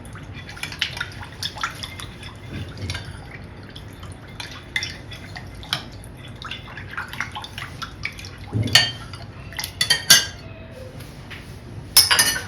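A utensil stirring melted butter and lukewarm milk in a mixing bowl, with irregular light clinks and scrapes against the bowl and a few louder clinks in the last few seconds.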